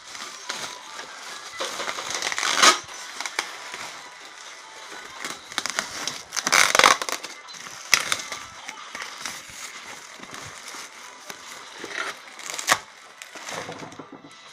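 Packing wrap being pulled off and crumpled by hand: a continuous crinkling rustle with several louder crackling bursts.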